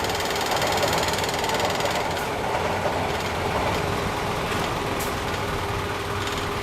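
An engine idling steadily with a constant hum.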